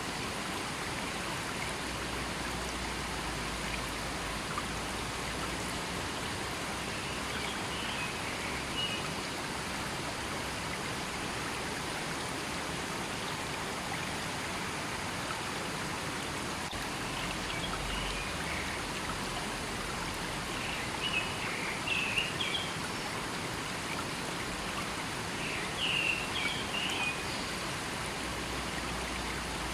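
River water flowing steadily in a forest, a continuous rushing. A few short high chirps, like small birds calling, come through now and then, most in the second half.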